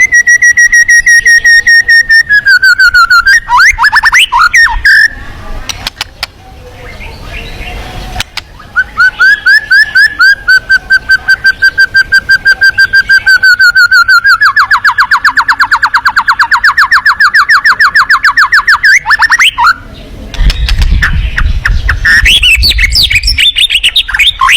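A songbird singing close and loud: long trills of rapidly repeated high notes, with quick sweeping chirps between phrases and a short pause mid-way.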